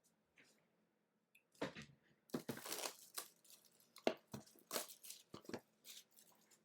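Trading card packaging being torn open and crinkled by hand, in a run of irregular rips and rustles that starts about a second and a half in.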